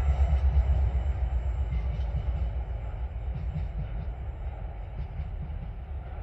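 Empty coal train hauled by TasRail diesel locomotives 2054 and 2051 moving away. Its low rumble fades steadily, with faint scattered clicks from the wagons.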